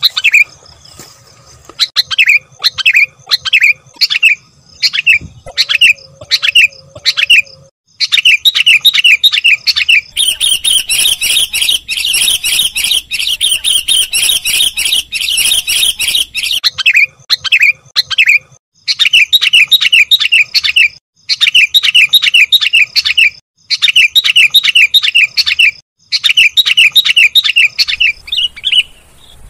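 Sooty-headed bulbul (kutilang) calling: short chirps, spaced out at first, then quick runs of chirps. About a third of the way in comes a dense, loud stretch of chatter lasting about six seconds. After it the quick chirp runs return, broken by short pauses.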